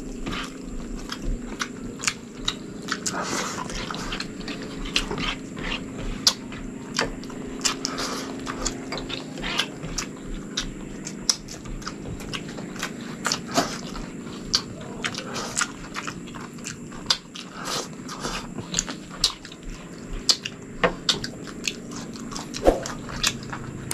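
Mouth sounds of eating chicken and rice by hand: irregular wet chewing and lip-smacking clicks, several a second, over a low steady hum.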